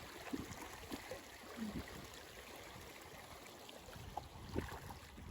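Faint steady rush of running water from a stream, with a few soft bumps.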